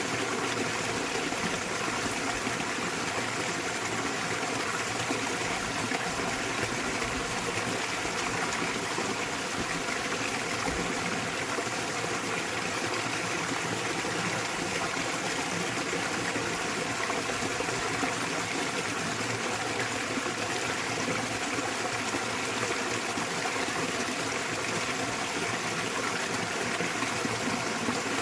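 Small waterfall in a mountain stream, water splashing and rushing steadily without a break.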